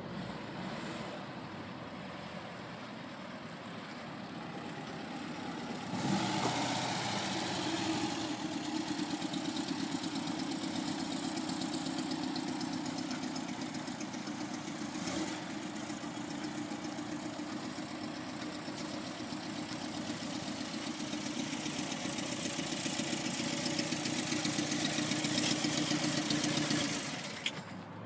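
A car engine close by comes on abruptly about six seconds in, runs steadily at idle, and stops near the end.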